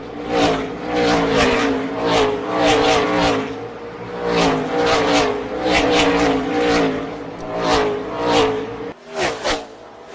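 V8 engines of NASCAR stock cars racing by in a pack, one car after another, each pass a loud surge about every half second to a second. The sound drops quieter near the end.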